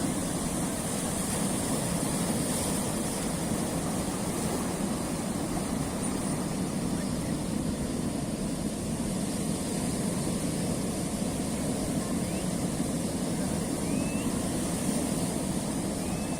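Sea waves washing steadily over a rocky shore, a continuous rushing noise with no single loud break.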